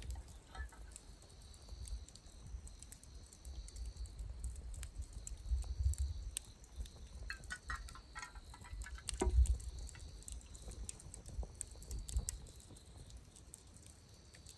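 Wood campfire burning down to embers, with scattered small crackles and pops. A few dull low thumps come about six and nine seconds in.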